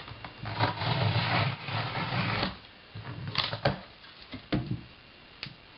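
Cardboard packaging being handled and opened: a scraping rustle of cardboard for about two seconds, then a few short knocks and taps.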